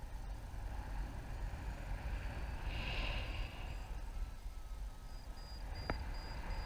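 Wind buffeting the microphone in flight, a steady low rumble, with faint short beeps repeating in the background. A brief hiss comes about halfway through and a single sharp click near the end.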